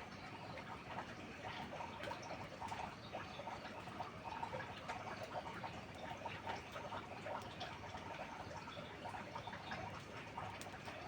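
Steady rain pattering and dripping on a hut roof, a dense patter of small irregular drops with scattered sharper ticks.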